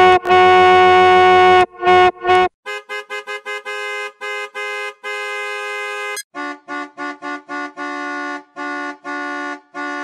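Car horn sound effects played as edited variations. A long held horn chord breaks into a few short blasts and stops about two and a half seconds in. A run of quick honks and longer blasts follows, and from about six seconds a lower-pitched horn sounds in an irregular series of short honks.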